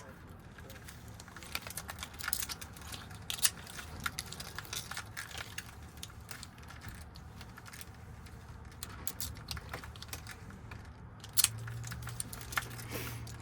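Scattered small metallic clicks and rattles of a Ford lock cylinder's wafers and key being handled during rekeying. A sharper click comes near the end, followed by a low hum for about two seconds.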